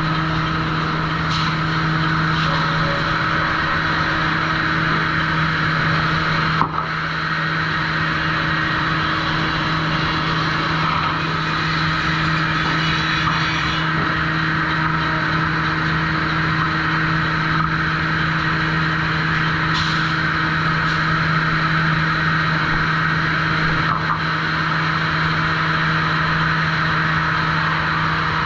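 Sawmill trim saw machinery running steadily: a constant low hum under an even whirring noise. There is one sharp knock about a quarter of the way in, and a few lighter clicks later.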